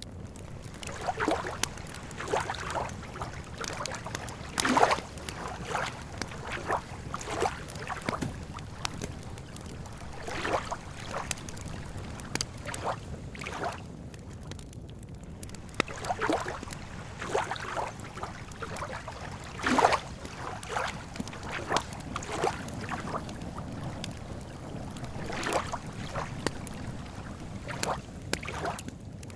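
Lake water lapping at the shore in irregular small splashes and gurgles over a steady low rumble, with a few sharp crackles from a campfire.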